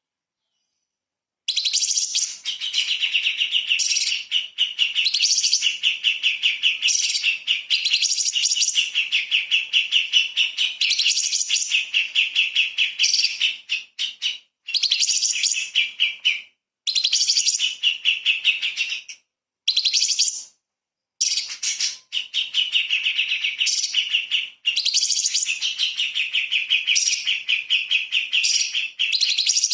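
Orange-bellied leafbird singing in long phrases of very fast, closely spaced notes, with short pauses between phrases. The song starts about a second and a half in.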